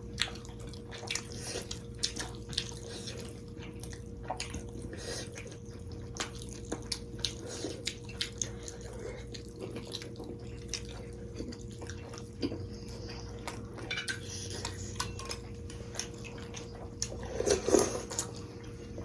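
Table eating sounds: spoons and cutlery clicking against bowls and plates over and over, with wet sounds of soup being eaten. A steady hum runs underneath.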